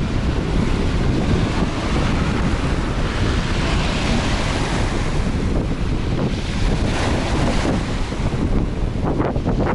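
Strong wind blowing across the microphone: loud, continuous wind noise with gusts.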